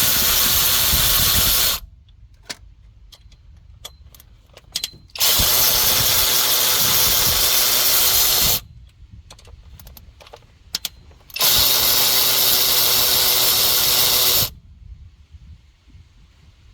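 Power tool run in three steady bursts of about three seconds each, with small clicks and knocks of handling in between. This is the work of taking the camshaft hardware off the second cylinder head of the 3.0L EcoBoost V6.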